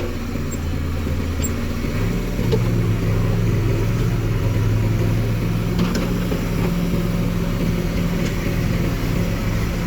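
Diesel engine of a JCB backhoe loader running, its revs rising about two seconds in and then holding steady under load.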